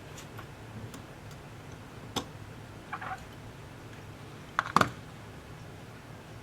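A few sharp clicks and taps of small tools and parts being handled during tablet repair, with a short cluster about three seconds in and the loudest double click just before the end, over a low steady hum.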